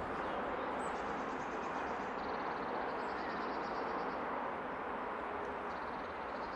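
Steady running noise of an electric locomotive hauling a passenger train as it approaches on the main line, with a small bird singing rapid high trills several times over it.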